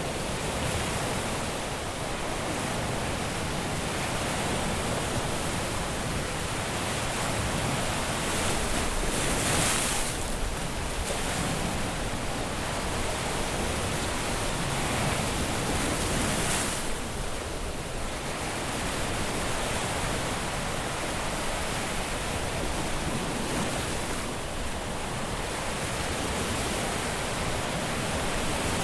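Ocean surf washing onto a beach as a steady hiss of waves, with louder rushes of breaking water about ten and again about seventeen seconds in.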